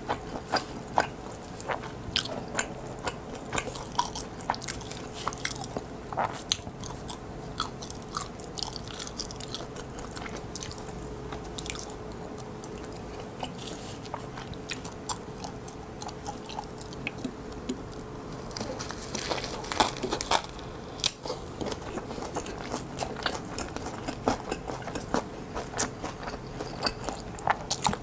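Close-up mouth sounds of a person biting and chewing kimbap: a steady run of small wet clicks and smacks, busiest about twenty seconds in, over a faint steady hum.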